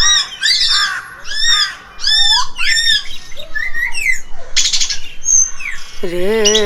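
A bird squawking and chirping in a quick series of short, arched calls. Near the end a long sung or played note comes in.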